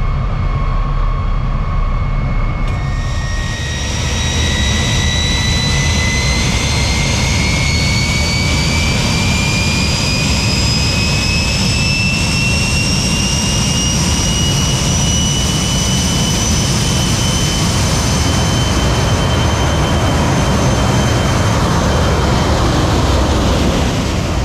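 Jet engine running with a high turbine whine that rises slowly in pitch, over a steady rumble. There is an abrupt change in the sound a little under three seconds in.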